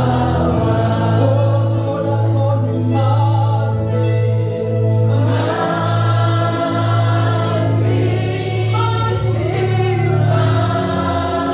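Congregation and choir singing a gospel worship song with instrumental accompaniment and a steady, sustained bass note.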